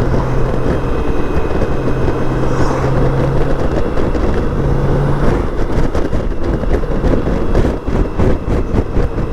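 Wind noise on the microphone over a BMW K1600 GTL's inline-six engine running steadily as the motorcycle rides along, a low, steady engine hum beneath the wind.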